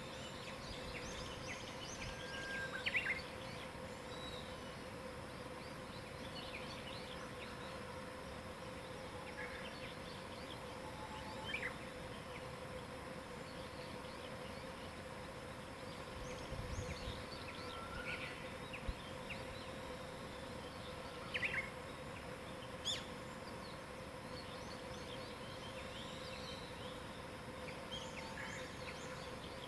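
Wild birds singing and calling in scattered short chirps and phrases, over a steady low hum.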